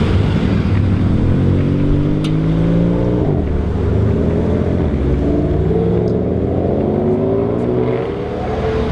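BMW M4 F82's twin-turbo straight-six with an Akrapovic exhaust accelerating hard: the engine note climbs, drops sharply at an upshift about three seconds in, then climbs again through the next gear.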